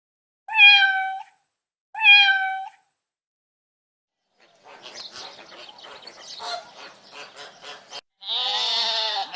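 Cat meowing: two short meows about a second and a half apart, a softer stretch of irregular, scratchy animal sounds, then a long, loud meow near the end.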